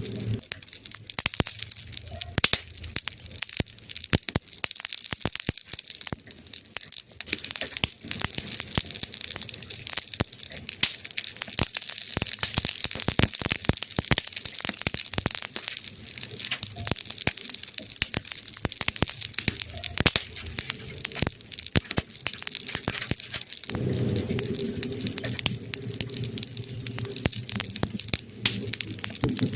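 Burning wood in a fireplace crackling: dense, irregular pops and snaps over a steady hiss. A low rumble joins underneath for a few seconds near the end.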